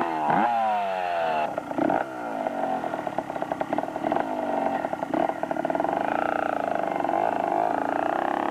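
Motorcycle engine being ridden, its pitch rising and falling several times as the throttle opens and closes, then running fairly steady in the second half.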